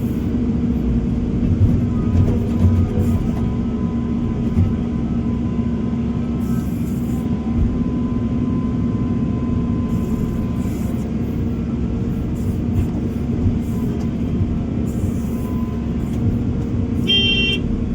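Heavy construction machine's diesel engine running steadily with a constant low hum, and a short high tone near the end.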